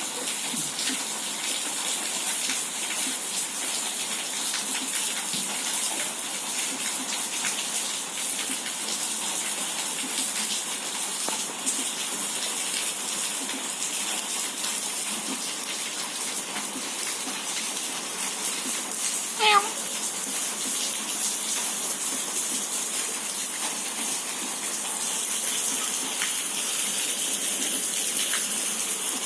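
Steady rush of water on a rain-soaked street, with fine patter and drips. About two-thirds of the way in there is one short pitched cry, louder than the water.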